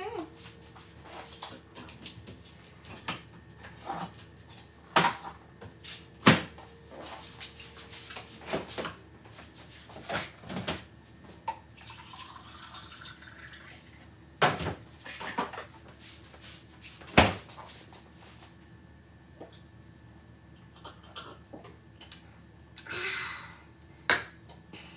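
Irregular knocks, clicks and clatter of kitchen items being handled and set down, with a few sharper knocks about 6, 14 and 17 seconds in.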